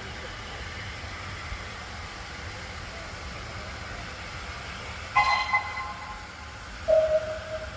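Two short railway whistle blasts about two seconds apart over a steady background: the first higher and sharper, the second a lower single tone that fades out.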